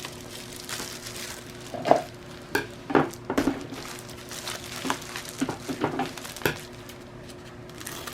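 Packaging being handled by hand: rustling and crinkling with a scattered series of light clicks and taps, over a faint steady hum.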